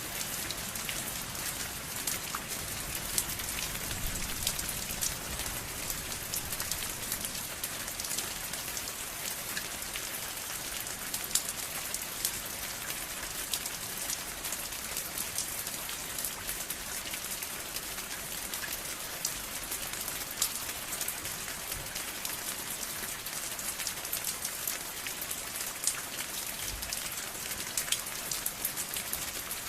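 Steady rain falling: an even hiss dotted with many sharp drop ticks.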